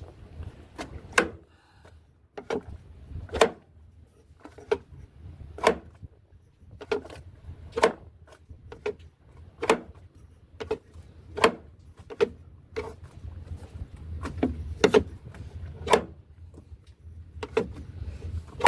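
A hard knock or click about once a second, each with a short ring, over a low rumble of wind.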